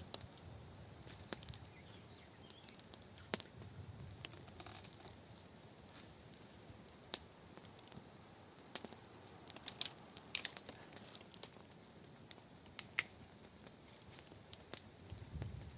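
Scattered sharp clicks and taps at irregular intervals, the loudest a cluster about ten seconds in and another near thirteen seconds, over a faint steady background.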